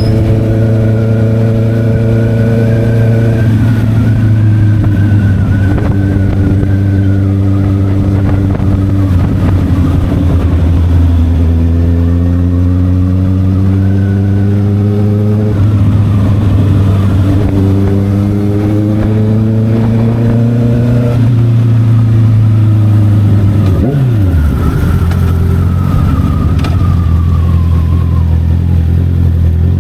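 Honda CB650R's inline-four engine with an SC Project aftermarket exhaust, running under way. Its pitch climbs twice as it accelerates and drops back after each climb.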